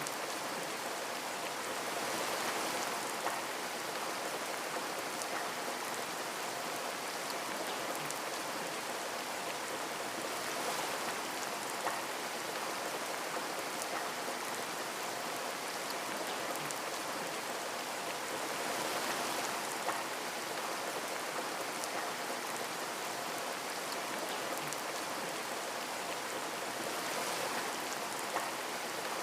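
Steady rain on a window, an even hiss with gentle swells in loudness and a few single louder drop ticks spread through it.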